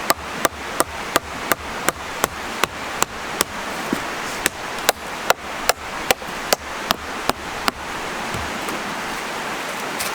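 A tool striking wood in rapid, evenly spaced knocks, about three a second, typical of chopping or hammering during bushcraft work. The knocks stop about three quarters of the way through, over a steady rushing noise.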